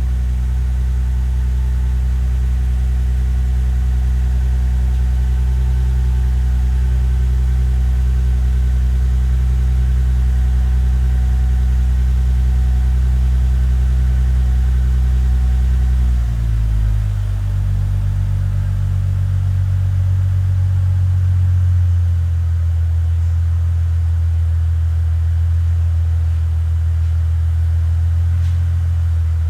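Mercedes-Benz C240's V6 engine idling through an aftermarket rear exhaust just after a cold start, with a steady low drone. About sixteen seconds in the idle drops to a lower, deeper pitch and settles a little further some seconds later, typical of the fast cold-start idle coming down.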